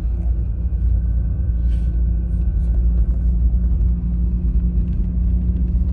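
A road vehicle running at a steady pace: a constant low rumble with an even engine hum.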